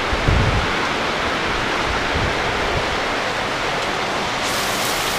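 Heavy tropical rain pouring down in a steady, dense hiss, with water streaming off the roof. A few low thumps of wind on the microphone near the start.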